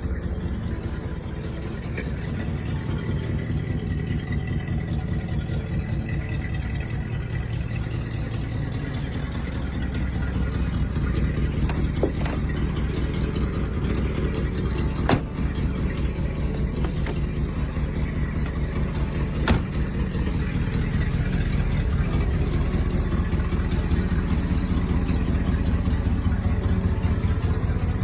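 A classic car's V8 engine idling steadily, with a few sharp clicks in the middle.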